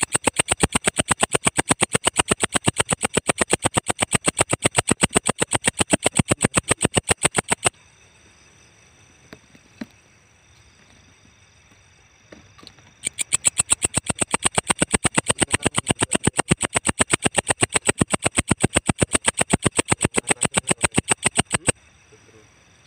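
Walang ecek, a singing grasshopper-type insect, stridulating in a rapid, high, pulsed buzz. It sings in two long bouts: the first stops about eight seconds in, and the second starts about five seconds later and stops near the end.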